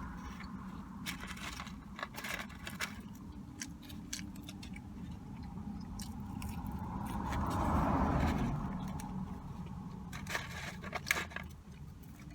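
Eating sounds: crunching and crackling clicks of biting and chewing a crispy chicken sandwich and fries, over a steady low hum. A swell of noise builds and fades about eight seconds in.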